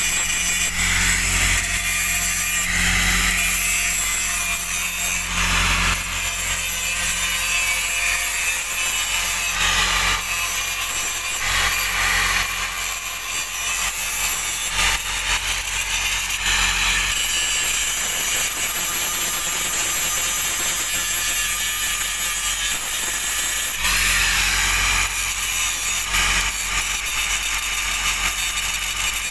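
Angle grinder grinding down the root pass of a weld on a 46-inch steel pipe: a continuous grinding hiss over a steady motor hum, swelling and easing as the disc is pressed on and let off.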